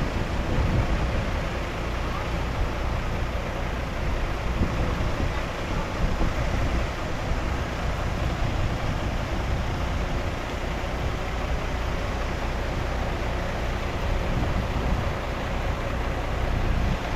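Bulldozer's diesel engine running steadily: a continuous low rumble with a hiss of mechanical noise above it.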